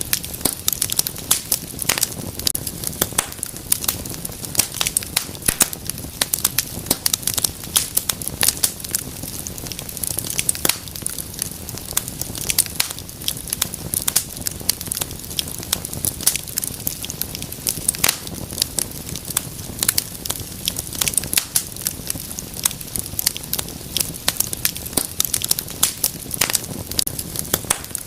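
Wood fire burning in a fireplace, with dense, irregular crackles and pops over a steady low rush of flame.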